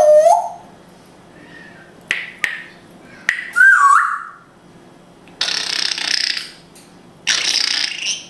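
African grey parrot calling: a gliding whistle-like call, a couple of short clicks, a second pitch-bending whistle, then two harsh hissing noises of about a second each.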